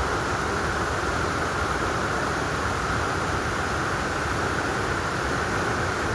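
Steady rushing of water in a mountain stream, an even hiss with no breaks or changes.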